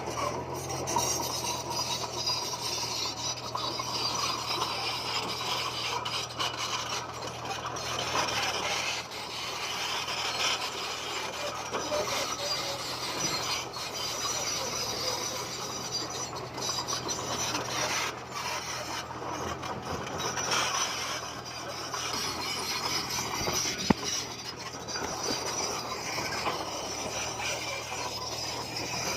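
Komatsu bulldozer at work: its engine runs under a continuous grinding, rasping scrape of tracks and pushed stone. A single sharp knock comes about 24 seconds in.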